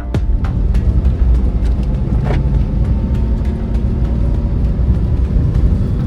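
Vehicle driving on a road: a steady low rumble of engine and road noise with many light ticks. About two seconds in, a short tone falls in pitch.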